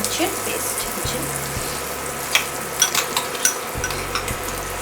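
Spinach paste sizzling in a pan of hot butter, oil and garlic as it is stirred, with a few sharp taps of the spoon against the pan near the middle.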